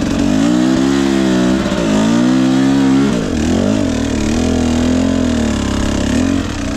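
Husqvarna TE 250i single-cylinder two-stroke dirt bike engine, just started, its revs rising and falling under light throttle for the first few seconds before settling to a steadier run.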